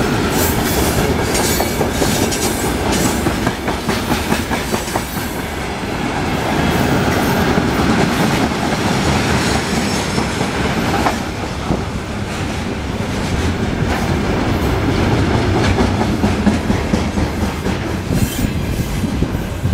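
Freight wagons of a mixed goods train rolling past close by, their wheels clattering over the rail joints in a steady run of clicks and rumble; the last wagon goes by near the end.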